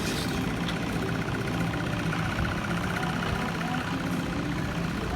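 Steady engine noise with faint held whining tones, even in level throughout.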